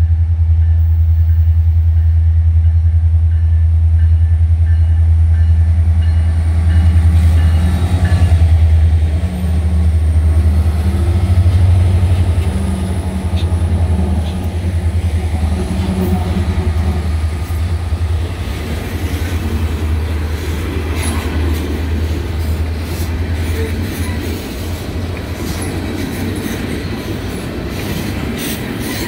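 Union Pacific SD70ACe-led diesel locomotives approaching and passing, their engines making a strong low drone that peaks as they go by and fades out a little over halfway through. Then a string of tank cars rolls past with steady wheel noise and regular clickety-clack over the rail joints.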